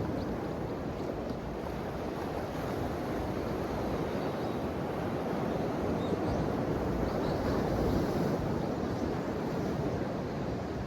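Ocean waves washing in, a steady rushing surge that swells to its loudest about two-thirds of the way through and eases off near the end.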